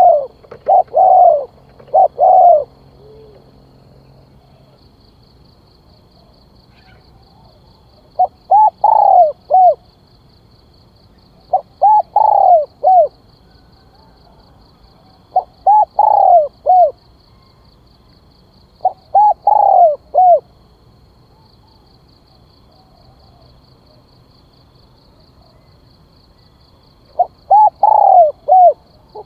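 Spotted dove cooing: six phrases of three or four coos each, repeated every three to four seconds, with a longer pause before the last phrase.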